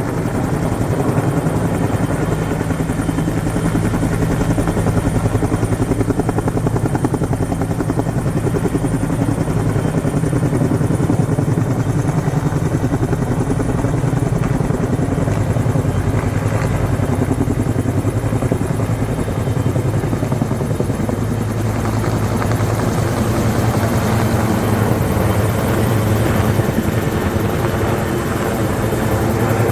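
Firefighting helicopter's rotor beating steadily, a continuous fast thudding with engine whine over it.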